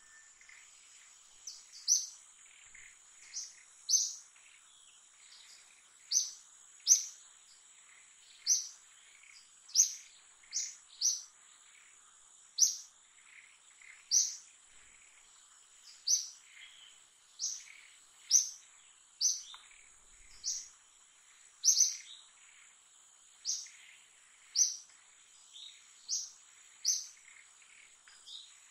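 Short, high-pitched bird chirps repeating roughly once a second at an uneven pace, over a steady high insect drone.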